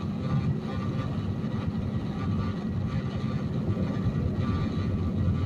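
Steady diesel engine and road noise inside a Peterbilt semi-truck's cab while driving on the highway.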